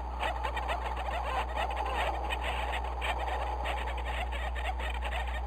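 Penguin colony calling: many short calls overlapping in a continuous chatter, over a steady low hum.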